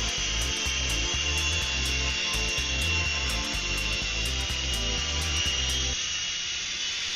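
Syma micro CH-47 Chinook RC helicopter flying, its small electric motors and twin rotors making a steady high whine and buzz.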